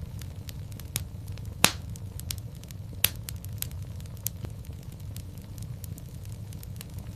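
Wood fire in a fireplace crackling over a steady low rumble of the flames, with scattered sharp pops; the loudest pop comes just over a second and a half in, and another strong one about three seconds in.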